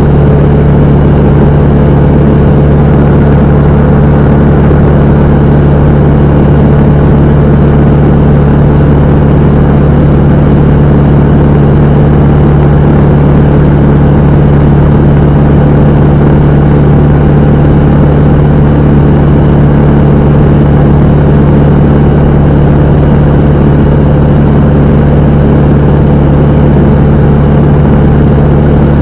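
Cessna 172M's four-cylinder Lycoming engine and propeller droning steadily at constant power, with no change in pitch.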